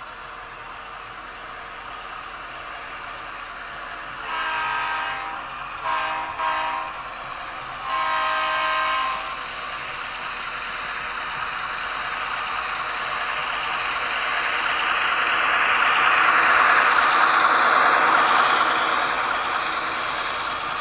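Model Union Pacific GP38-2 diesel locomotive sounding its horn: a blast of about a second, two short toots, then a longer blast. After that its running sound swells as it comes close, loudest about two-thirds of the way in, then fades a little.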